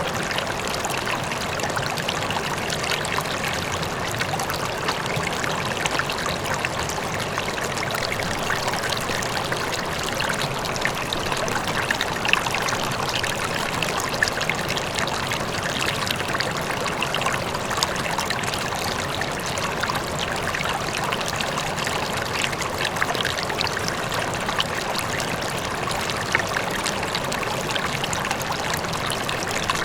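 River water flowing steadily over stones, with many small splashes and a faint waterfall running in the distance.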